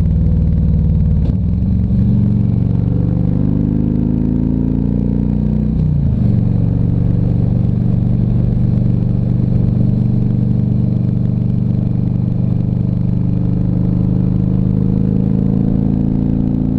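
Harley-Davidson Ultra Classic Electric Glide V-twin engine pulling under load as the bike speeds up, heard from the saddle. Its note dips and climbs about a second and a half in, rises steadily, then drops sharply just before six seconds on an upshift. After that it settles into a steady cruising drone that creeps slowly higher.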